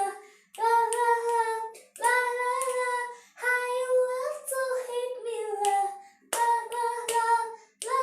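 A child sings a song alone in a high voice with no backing music. The song comes in about five held phrases with short breaths between them, and a few faint clicks are heard.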